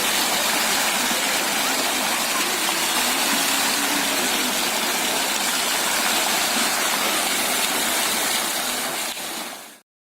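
Water fountain splashing: a steady hiss of falling water that fades and cuts out just before the end.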